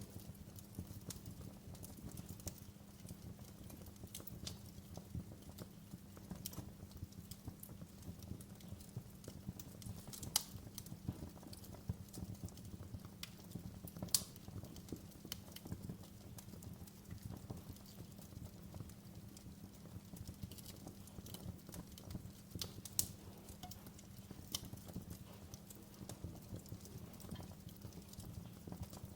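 Wood fire crackling in a fireplace: frequent small snaps and a few louder pops over a steady low rumble.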